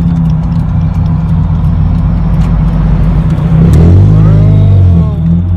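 Mazda Miata's four-cylinder engine running loud through a straight-piped exhaust with the muffler cut off, a steady low drone. About four seconds in it gets louder, with a brief rise and fall in pitch like a short rev.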